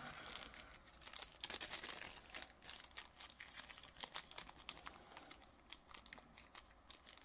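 Small plastic bag crinkling as it is handled and folded over: a run of faint crackles that thins out toward the end.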